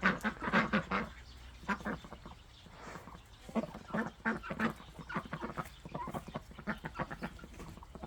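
Farmyard poultry calling: a run of short, quacking calls at uneven intervals, loudest in the first second.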